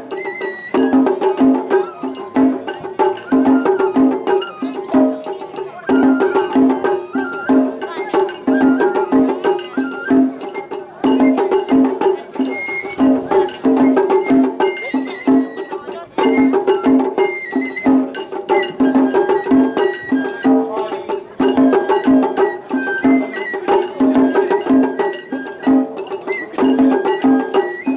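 Japanese festival hayashi (matsuri-bayashi) music: a bamboo flute melody over a steady, repeating pattern of taiko drum strokes.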